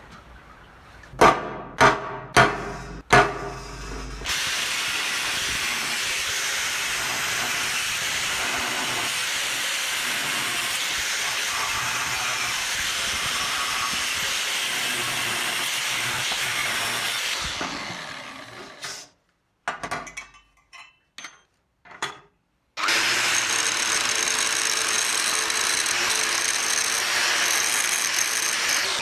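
A few sharp metal knocks, then a power tool runs steadily for about thirteen seconds and winds down. After a couple of seconds of small clatter it runs again.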